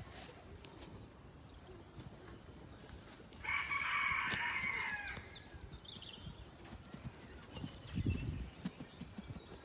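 A rooster crowing once, a single drawn-out call of about two seconds starting about three and a half seconds in. A low thump follows near the end.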